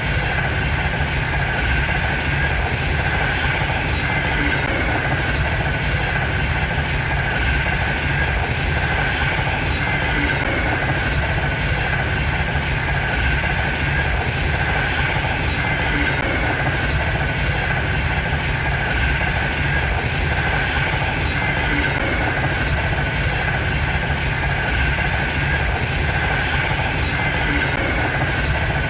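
Frecciarossa high-speed train running at speed: a steady rumble with a rushing hiss and a constant hum-like band above it, unchanging throughout.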